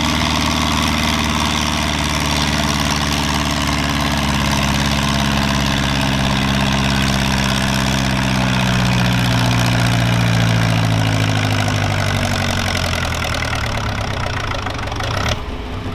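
Pulling tractor's engine working hard under load down the track, its pitch sagging slowly as the tractor bogs down and runs out of steam. Near the end the engine sound drops away suddenly as the pull ends.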